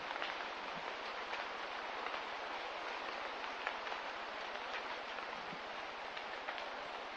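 Steady hiss of light rain, with scattered drops ticking now and then.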